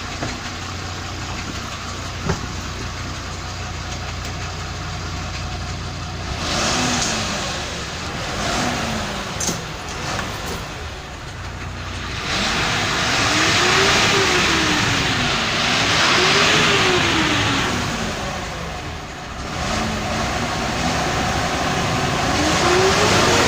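Volkswagen 17-260 bus's six-cylinder diesel engine idling, then revved: two short blips, then several longer revs that rise and fall in pitch.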